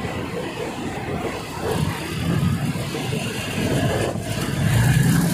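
Diesel passenger train running along the track, heard from an open carriage window: a steady low rumble of engine and wheels on rails with a rush of air, getting louder near the end.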